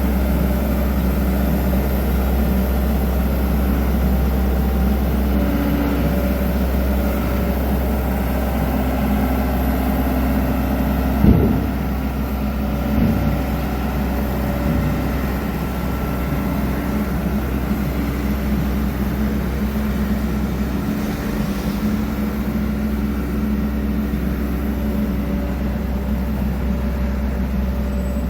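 Diesel engine of a road roller running steadily, with a sharp thump about eleven seconds in and a smaller one two seconds later.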